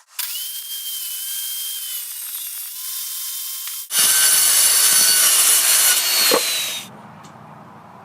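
Power saw cutting plywood: a motor whine under loud cutting noise in two passes, the second louder, stopping suddenly about seven seconds in.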